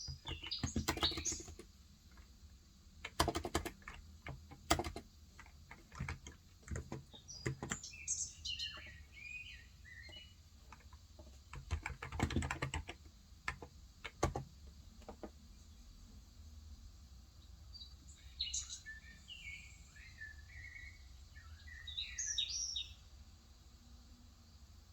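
Typing on a Cox Endeavour electrostatic capacitive (Topre-style) 35 g tenkeyless keyboard, in bursts of keystrokes through the first half that stop about fifteen seconds in. Birds chirp in short bursts in the middle and again near the end.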